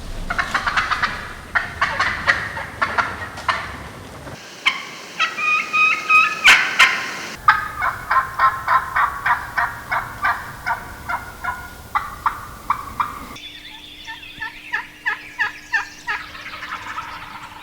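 Wild turkey hen giving runs of raspy plain yelps, bordering on excited yelps, several short notes a second in series, with wind rumble on the microphone under part of it.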